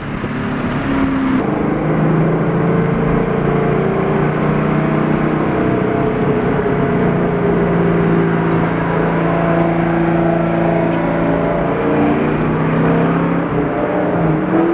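Car engine pulling hard at wide-open throttle, its pitch holding nearly steady at high revs, with heavy road and wind noise, heard from inside a car during a roll race.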